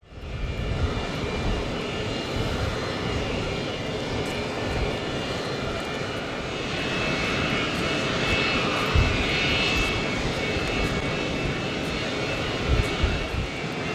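Kawasaki EC-1's twin JT8D turbofan engines running on the ground during engine start-up: a steady jet whine and rumble that swells louder about halfway through.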